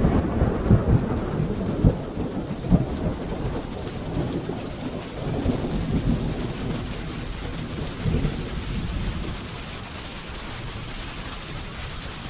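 Thunder rolling over steady rain: a loud rumble with several sharp cracks in the first three seconds, swelling again more softly twice and dying away near the end, leaving the rain's even hiss.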